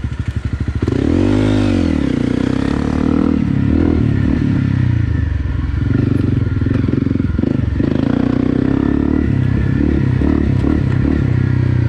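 Honda CRF250 Rally's single-cylinder engine running as the bike is ridden, revving up and back down about a second in, then its revs rising and falling with the throttle.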